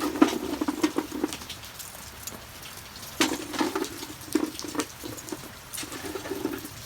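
Lumps of charcoal knocking and clattering as they are put onto a wood fire in a grill, a handful of sharp knocks scattered through, over steady rain pattering.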